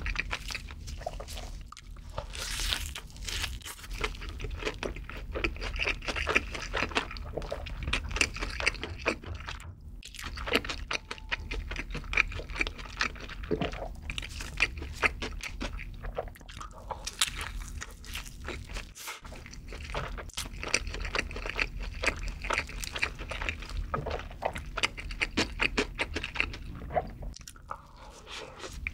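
Close-miked chewing of a handmade burger: wet mouth sounds with a dense run of crisp crunches. Another big bite comes near the end.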